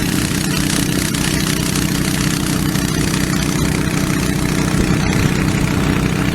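Engine-driven 3-inch dewatering pump running steadily at a constant speed with a low, even pulse, pumping water out of a water-filled dam tube.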